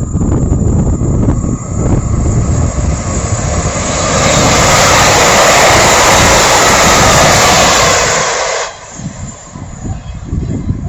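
A train passing at speed close by, its rush building about four seconds in and cutting off abruptly near nine seconds as it goes by. Wind buffets the microphone throughout.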